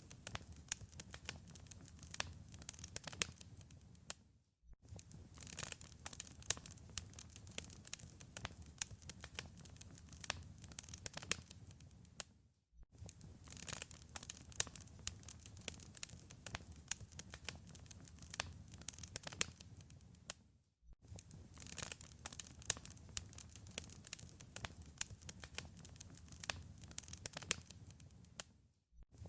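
Wood fire crackling, with dense sharp pops and snaps over a low hiss and rumble. The sound cuts out completely for a moment about every eight seconds, at the seams of a repeating loop.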